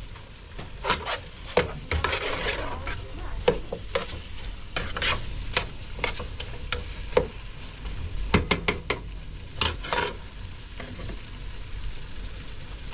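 Irregular sharp knocks and scrapes of things being handled, with a short rushing hiss about two seconds in.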